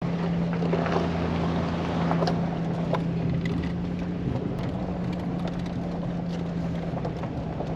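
Full-size pickup truck's engine running at a steady pitch as it climbs a dirt forest road, with tyre and road noise and small ticks of gravel.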